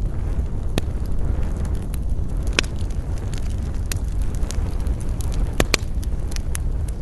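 Wood fire burning with a steady low rumble and irregular sharp crackles and pops, the loudest about two and a half seconds in and a quick pair late on.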